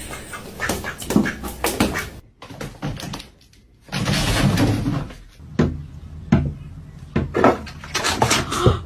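A series of sharp knocks and thumps, broken by a short quieter spell a few seconds in and a louder rushing noise for about a second after it.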